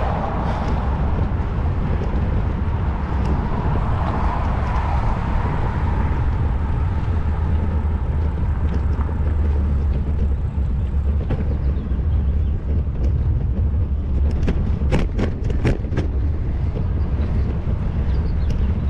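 Steady low wind and road rumble on a camera microphone during a bicycle ride, with a quick run of sharp clicks or rattles about fifteen seconds in.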